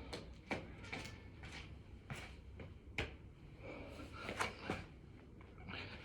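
Hands and feet landing on the floor during six-count burpees: a string of irregular thuds and taps, about two a second.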